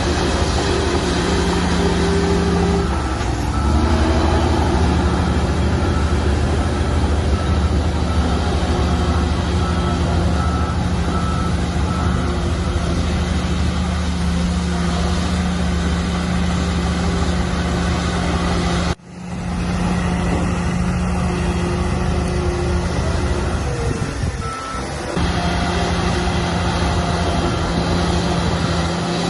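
Heavy diesel earthmoving machinery running steadily, its engine note dropping briefly twice. A reversing alarm beeps for several seconds in the first half, and the sound cuts off abruptly for a moment about two-thirds of the way through.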